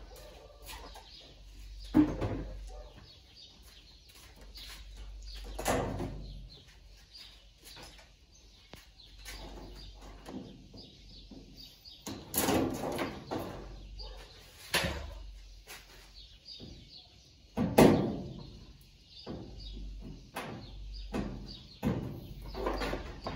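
Irregular knocks and clatter of tools and parts being handled while a washing machine is taken apart, with a few sharper bangs about 2, 6, 12, 15 and 18 seconds in.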